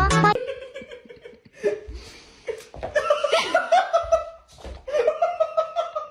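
A person laughing in a run of short bursts.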